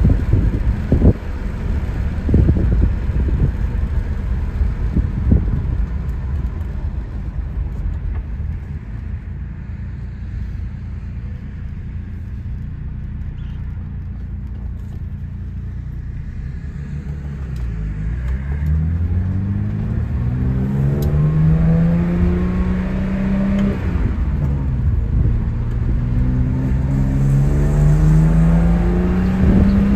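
1972 BMW Bavaria's straight-six engine heard from inside the cabin. Low road rumble and a few thumps give way to a quieter coast. A little past halfway the engine note climbs steadily under acceleration, drops at an upshift about four-fifths in, then climbs again.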